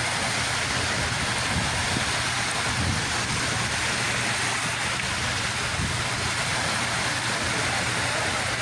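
Sea surf washing on the shore: a steady, unbroken rush of water with no single wave standing out.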